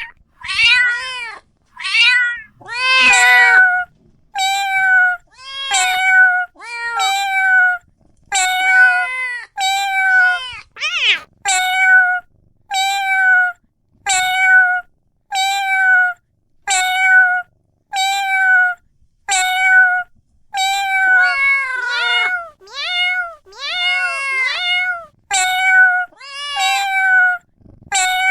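A cat meowing over and over, about once a second, more than twenty times. Each meow is short and high, rising and then falling in pitch.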